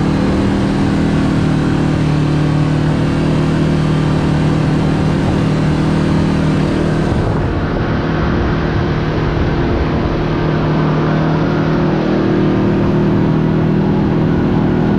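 Side-by-side UTV engine running at a steady cruising pitch as it drives along a trail, with a constant rush of drivetrain, tyre and wind noise.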